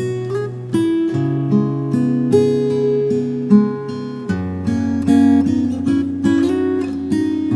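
Acoustic guitar playing a slow, relaxing instrumental: plucked notes over sustained bass notes, moving to a new chord about four seconds in.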